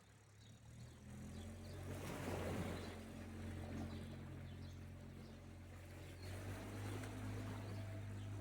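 An engine's steady low hum that comes in about a second in, over sea waves washing on the shore.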